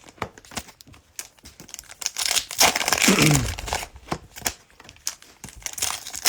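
Plastic cello pack wrappers crinkling and tearing open while trading cards are handled, with a louder stretch of crinkling in the middle.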